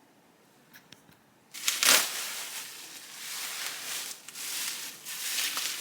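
A couple of small clicks, then loud crinkling and tearing of packing material as a part is unwrapped, starting about a second and a half in and going on in uneven waves.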